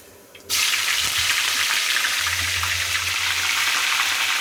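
Chopped onion, tomato and curry leaves dropped into hot sesame oil, sizzling loudly and steadily from about half a second in as they start to fry for the tempering.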